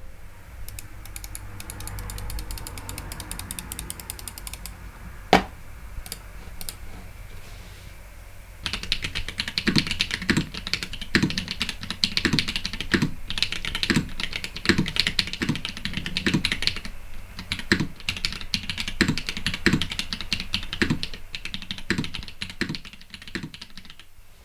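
Typing on a Mekanisk Fjell custom mechanical keyboard with YOK Holy Panda tactile switches. Sparse, quieter keystrokes with one sharp loud stroke about five seconds in, then from about nine seconds in fast continuous typing with a deeper keystroke recurring under it.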